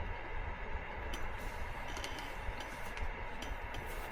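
A few faint clicks of an eating utensil against a cup or pot, over a steady low background hum.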